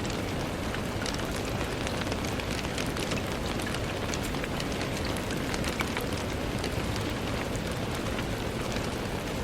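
Steady rain on a window: an even hiss of rainfall with many small separate drop ticks scattered through it.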